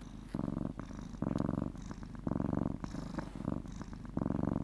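Domestic cat purring steadily, the purr swelling and easing in pulses about once a second with each breath in and out.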